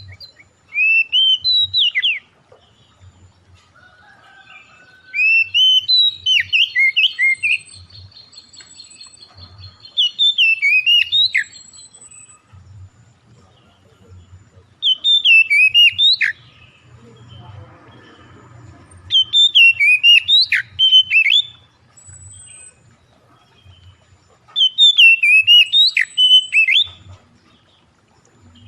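Songbird singing a lure song in loud phrases of quick, sweeping whistled notes, about six phrases a few seconds apart, with a fainter high, rapid trill from a second bird between them.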